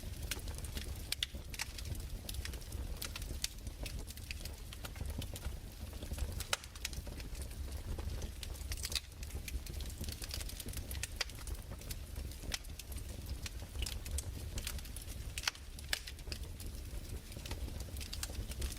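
Crackling fire: irregular sharp pops and snaps, several a second, over a steady low rumble.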